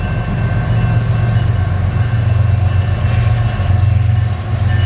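GE diesel freight locomotives (an ES44DC and two ET44ACs) running with the train, a loud steady low engine drone with a few faint steady whines above it.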